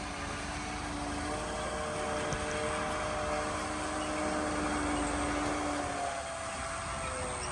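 Engine of working heavy earthmoving machinery running steadily: a hum of several steady tones that drift slightly in pitch around six seconds in, over a constant rushing noise.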